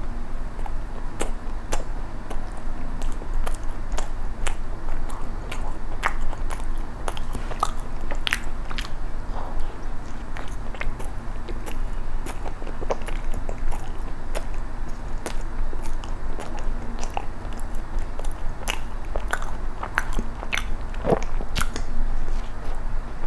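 Close-miked chewing of soft bread filled with bean-flour cream and red bean paste: irregular wet mouth clicks and smacks, over a low steady hum.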